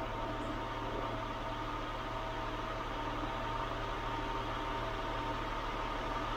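2000 Acura 3.2 TL's 3.2-litre V6 idling steadily, engine speed holding even with no revving.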